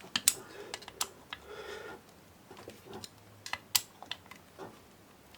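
Scattered light clicks and taps of a hand tool and small metal engine parts, as the screws joining the two-stroke trimmer engine's crankcase halves are tightened.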